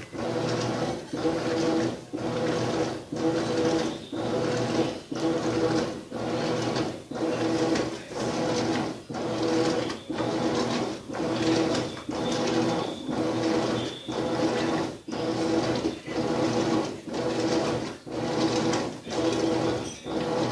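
Maytag washing machine in its wash cycle, its motor turning the laundry back and forth in even strokes about once a second, each stroke a humming whir with a brief break between.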